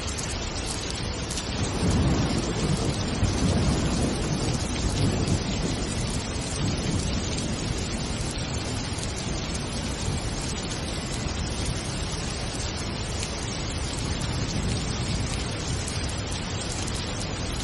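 Steady rain falling, with a low rumble of thunder swelling about two seconds in and fading over the next few seconds.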